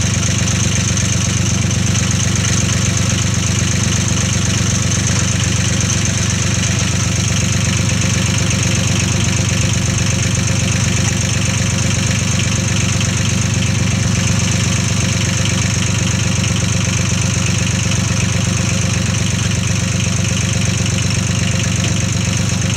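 Small tractor engine idling steadily while it is cooled down after hard work.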